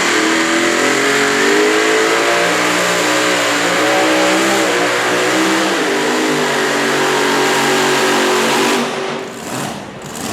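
Super modified pulling tractor's engine under full load during a pull, its pitch climbing at the start and then wavering. About nine seconds in the engine note drops off as it comes off throttle.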